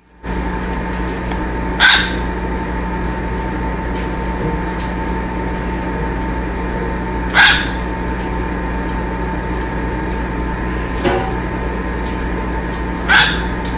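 Four short, sharp animal calls spaced several seconds apart, over a steady electrical hum.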